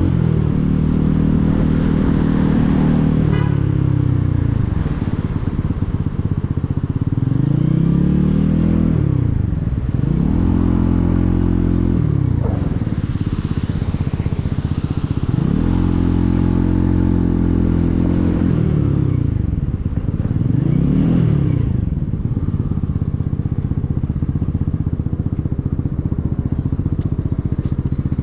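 Motorcycle engine running under way, its pitch climbing with acceleration and dropping at each gear change, several times over. Near the end it holds a steadier, lower note.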